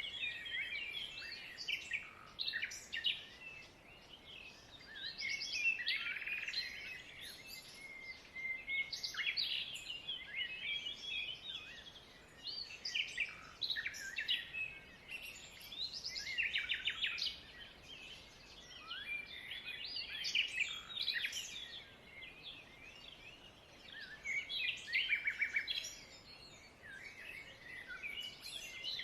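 A flock of small birds chirping and chattering together, many overlapping high calls that swell in bouts every few seconds.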